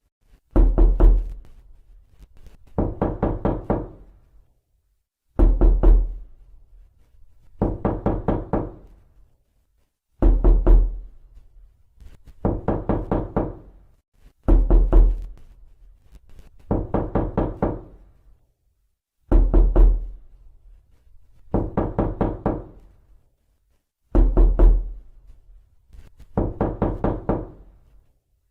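Knocking on a door: repeated bursts of several quick knocks, with a new burst about every two seconds.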